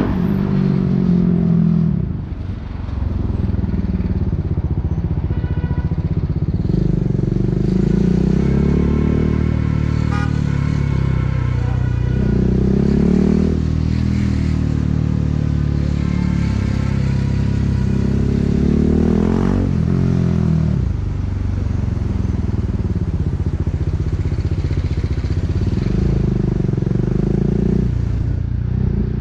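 A BMW G 310 R's single-cylinder engine running through an Akrapovic racing exhaust on the move, its pitch repeatedly rising and falling as it accelerates, shifts and eases off.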